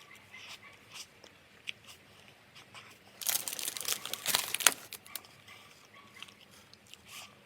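Crinkling, tearing rustle of something crumpled, about a second and a half long near the middle, among faint small crunches and clicks.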